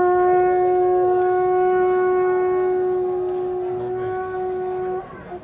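Conch shell (shankha) blown in one long, steady note of about five seconds that stops sharply.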